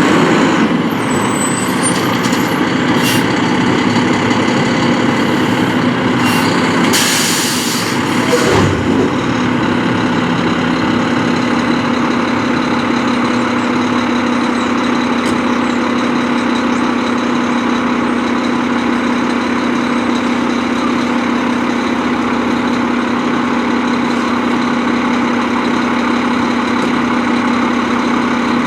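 Mack LR garbage truck's diesel engine running steadily at idle, with a short hiss of air about seven seconds in.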